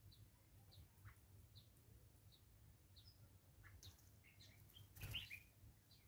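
Wild birds chirping faintly, short high chirps repeating roughly every second, with a busier run of calls past the middle. About five seconds in comes a brief louder flutter mixed with chirps as a bird lands.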